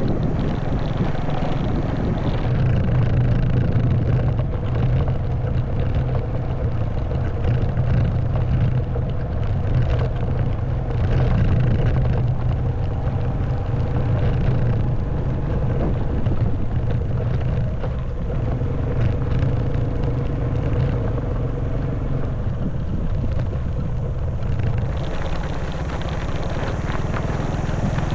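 Honda Wave 110cc motorbike's single-cylinder four-stroke engine running at a steady pace on a rough stone and mud track, with small clicks and rattles over the ground. About 25 seconds in, the engine note eases and more hiss rises.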